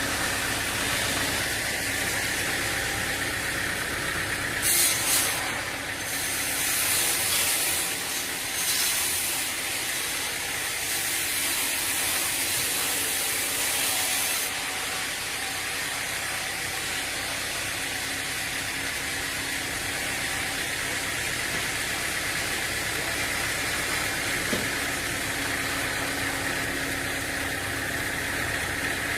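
Sawmill machinery running steadily, with several bursts of high hiss in the first half, the longest lasting about three seconds.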